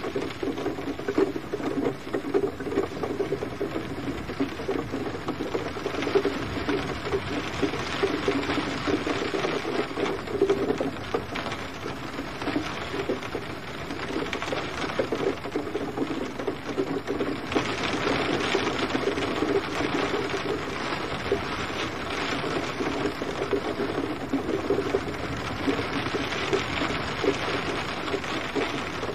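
Steady rain, with dense pattering drops on a surface and a low, steady wash of water beneath.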